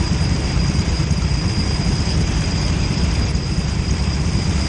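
Go-kart engine running steadily at low revs, a dense low rumble under a haze of noise, with a thin steady high whine.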